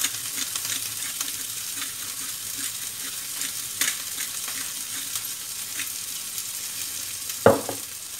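Onions and garlic sizzling in hot oil in a wok, with many small crackles, while a pepper mill is twisted to grind black pepper over it. A single loud thump near the end.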